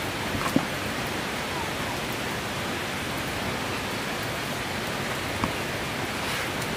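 Steady heavy rain, with a few sharp ticks, one about half a second in and another near the end.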